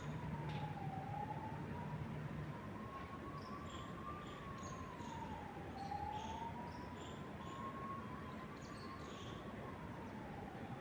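A siren wailing slowly up and down, one rise and fall every four to five seconds, over a steady hiss of wind in trees, with short bird chirps scattered through it.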